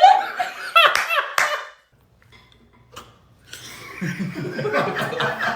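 Human voices laughing with high, breathy bursts, then after a brief near-quiet pause a low, rough, drawn-out vocal noise made with the mouth.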